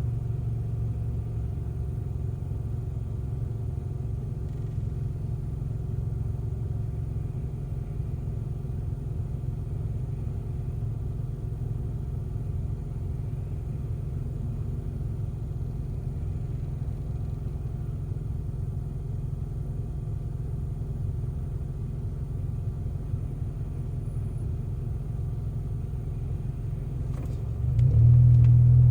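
An engine running steadily with a low rumble, getting noticeably louder about a second before the end.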